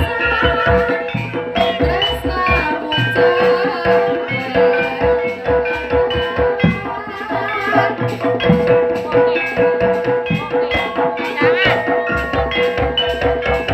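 Live jaranan music: a fast hand-drum pattern under a long held note and melodic instrument lines.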